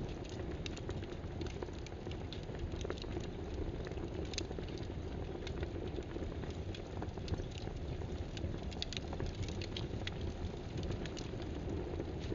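Computer keyboard typing: irregular sharp key clicks, some in quick runs, over a steady background hiss and rumble.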